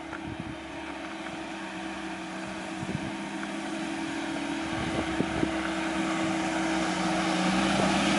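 A car engine running at a steady low speed and getting gradually louder as the car comes closer.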